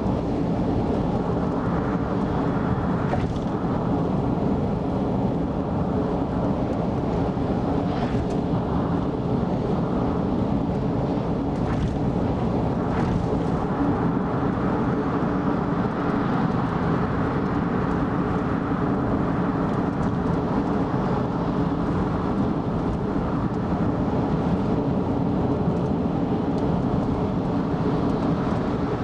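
Car travelling at expressway speed: a steady rumble of tyre and engine noise, with a few faint ticks.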